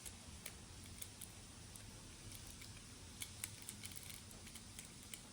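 Faint, scattered small clicks and ticks of hand work on an electrical wall outlet and its wires, a few in the first second or so and a couple more a little past three seconds in.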